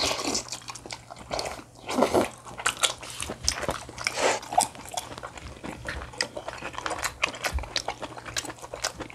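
Close-miked eating sounds: chewing and mouth noises with scattered sharp clicks, loudest about two and four seconds in.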